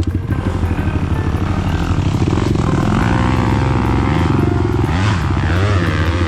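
Dirt bike engine running hard, revving up and down repeatedly about five seconds in.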